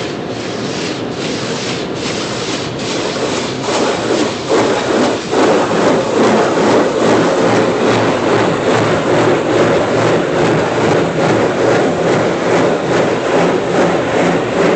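A car being scrubbed during a wash: a steady rushing, rubbing noise that grows louder about four seconds in and then pulses at about two strokes a second.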